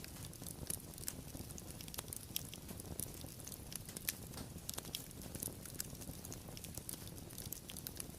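Wood fire crackling: a steady low rumble of flames with frequent small irregular pops and snaps, a few sharper ones standing out.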